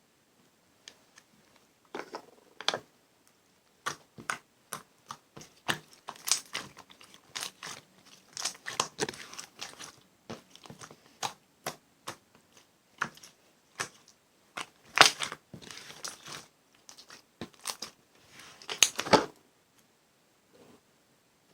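Slime being pressed and poked by hand, making irregular crunchy crackles and pops, several a second, with a few short denser crackling stretches.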